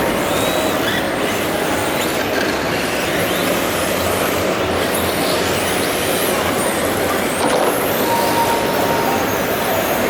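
Radio-controlled model cars racing, their motors whining up and down in pitch as they speed up and slow over a loud, steady din.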